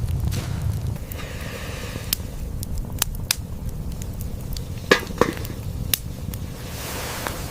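Scattered sharp cracks and snaps over a low steady rumble, with two louder snaps close together about five seconds in.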